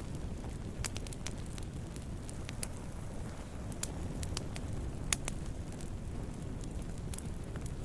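Wood campfire burning: a steady low rumble of flames with irregular sharp crackles and pops, the loudest about five seconds in.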